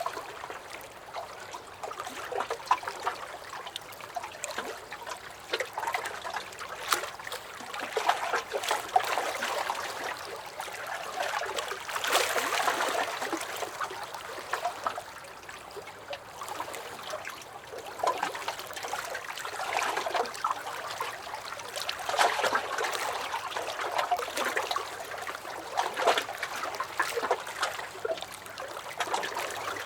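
Small lake waves lapping and sloshing against a dock, an uneven run of little slaps and trickles with gentle surges every few seconds.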